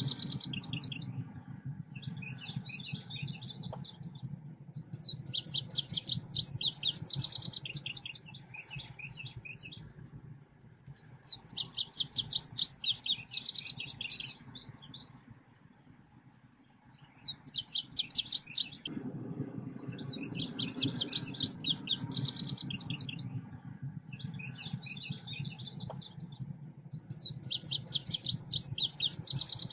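Selendang biru bird song used as a lure call: rapid, high chattering phrases of about two seconds each, repeating every few seconds, over a faint low hum.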